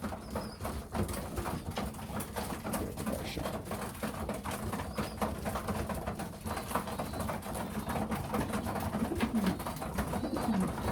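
Young racing pigeons cooing, with low falling coos clearest near the end, over a busy run of short clicks and taps.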